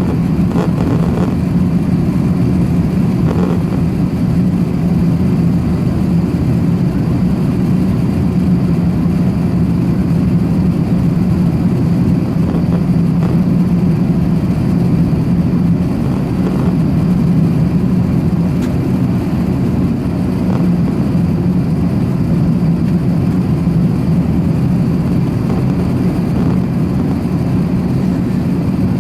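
Steady low drone inside the cabin of an Airbus A380-861 in flight: its four Engine Alliance GP7200 turbofans and the airflow over the fuselage, with a strong hum near 200 Hz and no change in level.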